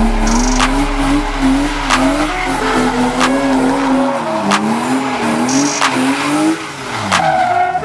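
A car drifting: its engine is held high, its pitch wavering up and down as the throttle is worked, over the squeal of sliding tyres. The engine note drops off about seven seconds in.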